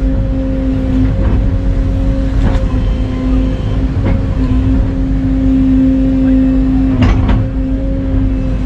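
Hydraulic excavator's diesel engine running steadily with a constant hydraulic whine, and a few short metallic clanks.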